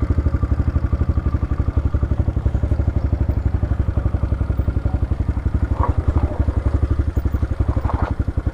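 Motorcycle engine running close by at low, steady revs, with an even, rapid pulsing beat and some light rattle.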